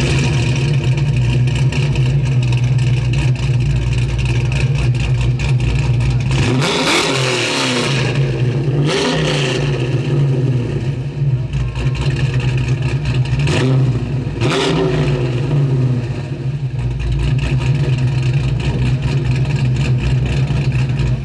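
A car engine running steadily, revved up and back down twice: about seven seconds in and again about fourteen seconds in.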